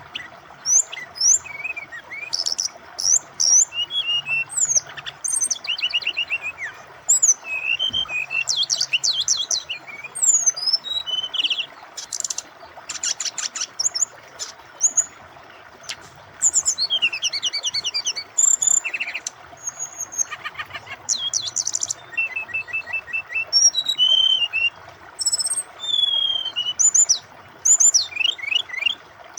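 Brown-chested jungle flycatcher (sikatan rimba dada coklat) singing a long, varied song of quick sweeping whistles and fast trills in phrases with short pauses, over the steady rush of flowing water.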